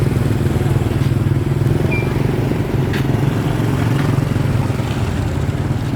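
A small engine running steadily close by, with a fast, even putter.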